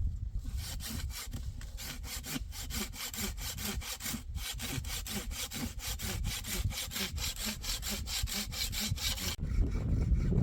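Hand saw cutting through wood in a fast, even run of strokes that stops abruptly near the end.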